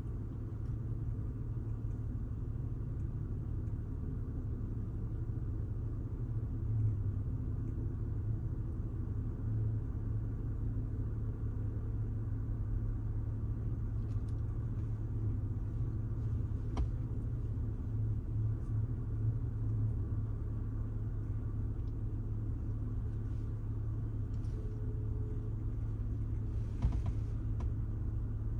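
Car driving along a city street: a steady low road and engine rumble, with a few faint knocks from small bumps.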